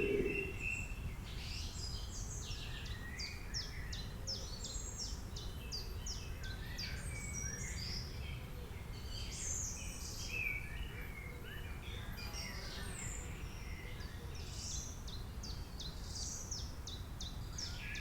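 Songbirds chirping and calling, many short high notes and quick runs of strokes, over a steady low rumble.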